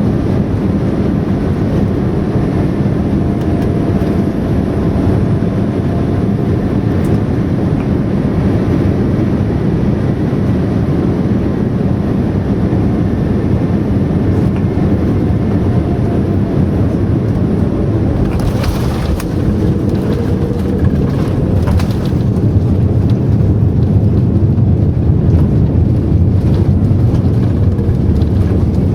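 Jet airliner cabin noise: the steady rumble of the engines and airflow heard from inside the cabin. A few short rattles come about two-thirds of the way through, and the noise grows slightly louder after them.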